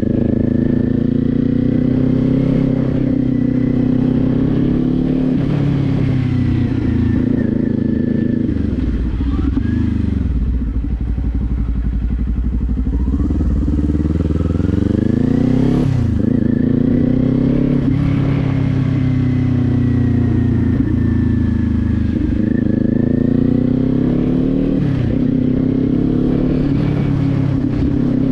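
Kawasaki Z400 parallel-twin engine riding along, its revs climbing and dropping repeatedly as it speeds up and shifts gears. About ten seconds in it settles to low revs for a few seconds, then pulls up again with sudden drops at each upshift.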